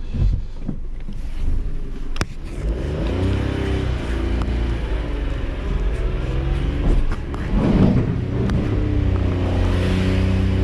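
Car engine misfiring, running on three cylinders, revved as the car is driven up a steep transporter ramp, the revs rising and falling on a slipping clutch, with a louder surge about eight seconds in. A sharp click about two seconds in.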